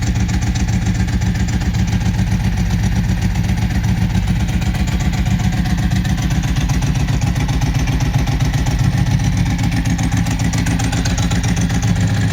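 Ducati 999S L-twin engine idling steadily through a Mivv aftermarket exhaust, a fast, even low pulsing.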